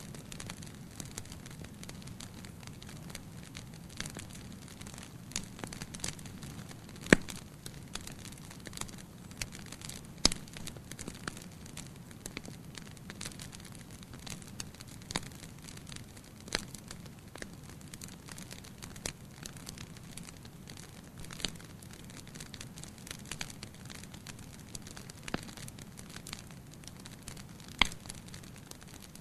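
Wood fire burning in a fireplace: a steady low rush of flames with frequent crackles and occasional sharper pops, the loudest about seven, ten and twenty-eight seconds in.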